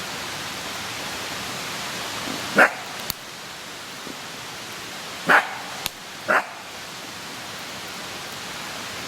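A dog barks three short times, about two and a half seconds in, then twice more a second apart, over a steady hiss. A couple of sharp pops from the wood fire come between the barks.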